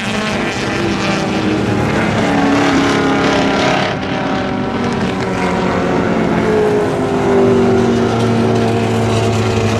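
Vintage muscle car race cars running at speed on the circuit. Several engines can be heard at once, their pitches rising and falling as they pass and shift gear. A deeper, steady engine note comes in near the end.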